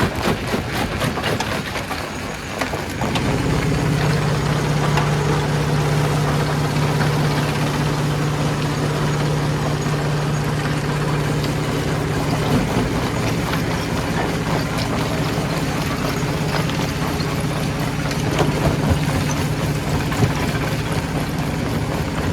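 Stone crusher machinery running: continuous rattling and grinding noise, joined about three seconds in by a steady low engine drone that holds, with a few sharp knocks.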